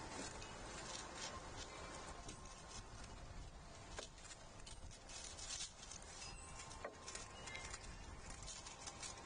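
Animals feeding at a backyard platform feeder: faint, irregular clicks and taps on seed and boards over a steady outdoor hiss.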